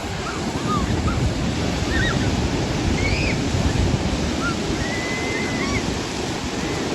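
Ocean surf breaking on a beach, a steady wash of noise with wind buffeting the microphone. Several short, high chirps sound faintly over it.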